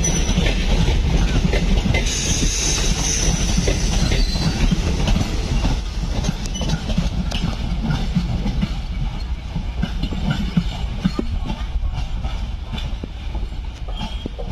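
Coaches of a passenger train rolling past at low speed: a steady low rumble with wheels clattering over rail joints and short high wheel squeals in the first few seconds. The rumble eases a little near the end.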